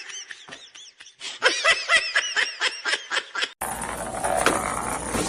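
High-pitched laughter in quick runs of short rising-and-falling calls, cutting off suddenly about three and a half seconds in to a steady noisy background.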